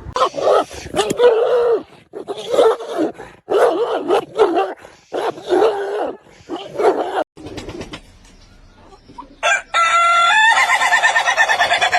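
An animal calls about five times in a row, each call about a second long and bending in pitch. After a short lull, a different steady pitched sound comes in near the end, pulsing rapidly.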